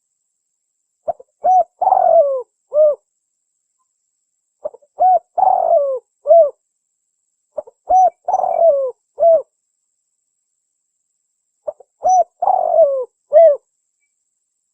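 Spotted dove (tekukur) cooing its lure call: four phrases about every three and a half seconds. Each phrase is two quick short coos, then a longer coo that falls in pitch, then one short coo. Clean silence lies between the phrases.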